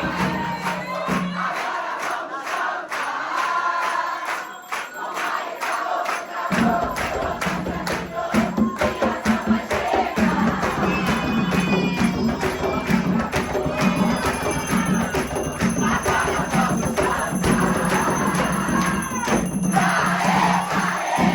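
A crowd singing a chant together over percussion with a steady beat and jingling, like a tambourine. The low end drops out for a few seconds near the start.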